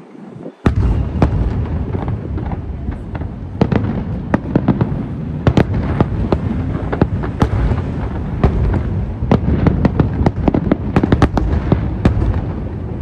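Aerial fireworks going off in quick succession: many sharp bangs and crackles over a continuous low rumble, starting up again after a brief lull right at the beginning.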